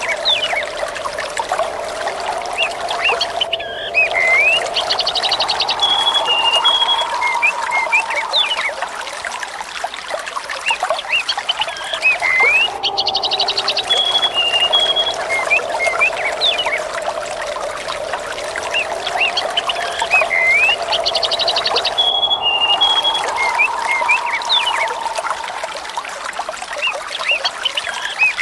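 Small birds chirping and trilling over steadily running water, a looped nature-ambience recording whose same stretch repeats about every nine seconds.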